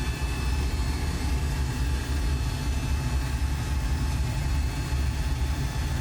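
CO2 laser engraver running through an engraving job: a steady low machine hum with an even hiss over it.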